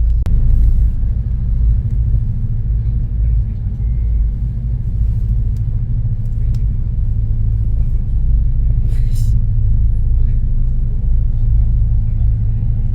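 Steady low drone of an OceanJet fast ferry's engines, heard inside the passenger cabin, with one brief higher noise about nine seconds in.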